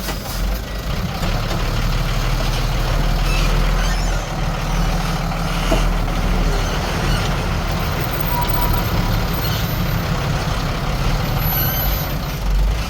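Heavy diesel engine of an earthmoving machine running steadily under work, a deep, continuous engine sound with no break.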